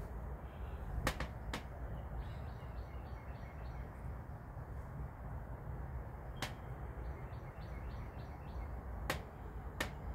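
Outdoor ambience with a steady low rumble, in which a bird twice gives a quick run of high chirps, and a few sharp clicks sound now and then.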